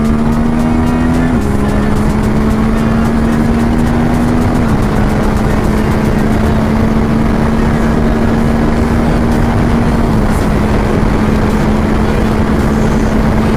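1000cc naked sport motorcycle engine running hard under a loud rush of noise. Its note climbs slowly and drops sharply three times, at each upshift.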